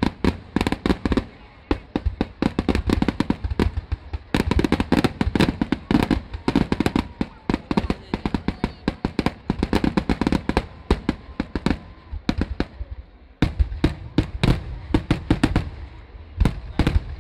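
Kerala temple-festival fireworks (vedikettu): dense volleys of sharp firecracker bangs, many a second, in runs with short lulls, thinning briefly a little past twelve seconds in before picking up again.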